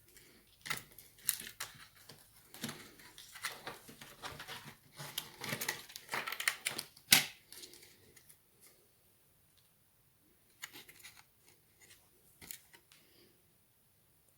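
Lenovo Legion Y520 laptop internals being handled and pried apart while the motherboard comes out: a busy run of small clicks, scrapes and rustling, with one sharp click about seven seconds in, then a few scattered clicks near the end.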